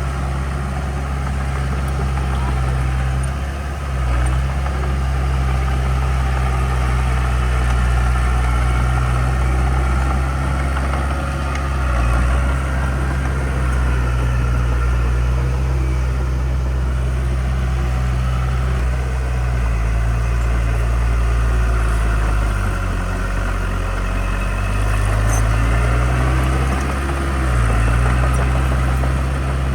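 Heavy diesel engine of construction machinery running steadily at low revs. Its pitch dips and comes back up a few times in the second half.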